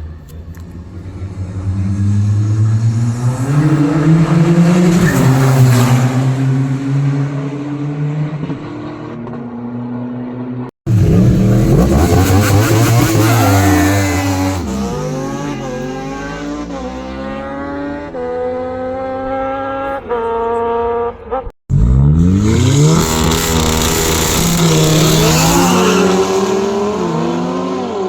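Car engines accelerating hard in three separately cut clips, the engine note climbing and then dropping back at each gear change, with abrupt breaks where the clips join.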